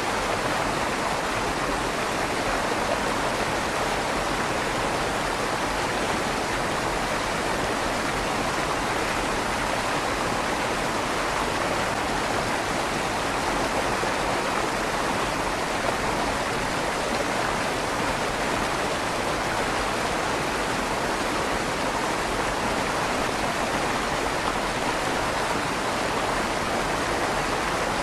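River water flowing steadily through a stone tunnel under a bridge, a continuous rushing with a slight echo off the stone walls.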